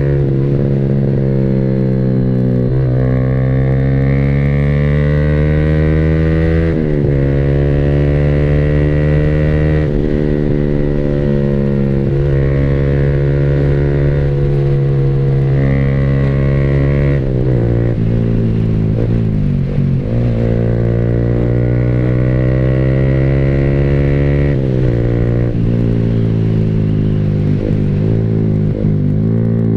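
Yamaha R15 V3's single-cylinder engine through an SC Project aftermarket exhaust, ridden hard. Its pitch climbs steadily through each gear and drops sharply at the upshifts, about four times. It dips briefly a few times in the later part.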